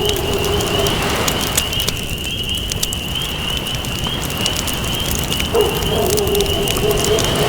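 Campfire crackling, with frequent sharp pops over a steady hiss. A dove coos low from a little past the middle, and a thin, steady, wavering high tone runs underneath.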